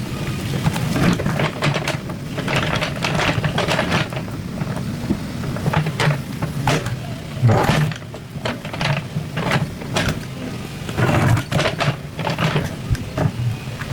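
Excavator's diesel engine running steadily, with repeated irregular clanks and scrapes of digging in soil and rock.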